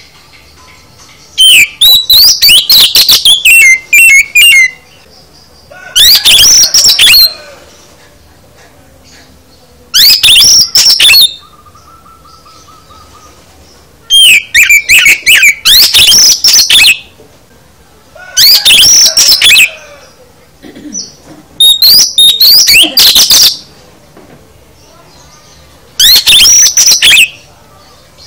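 Oriental magpie-robin (kacer) singing loud, fast phrases of whistles, trills and chattering notes, seven bursts with short pauses between them. This is full-isian song, rich in mimicked phrases of other birds.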